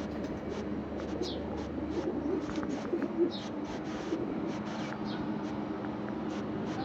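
Birds calling, with many short high chirps and a few falling chirps, over a steady low hum.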